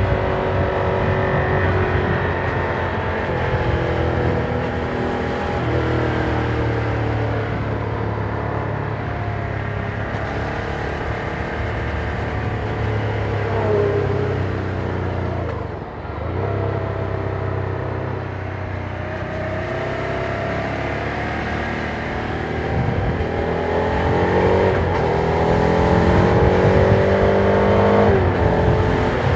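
Ducati Monster 797's air-cooled 803 cc L-twin engine on its stock exhaust, running under way while the bike is ridden, its pitch rising and falling with the throttle. There is a brief dip in level about halfway through, then the engine climbs steadily in pitch and level toward the end.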